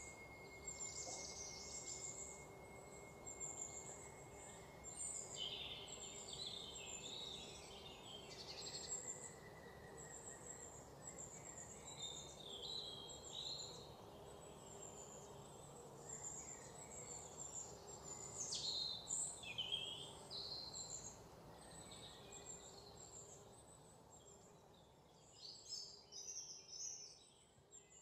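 Faint birdsong: many short chirps and trills from several small birds over a low steady hum, with a quick run of falling calls a little past halfway.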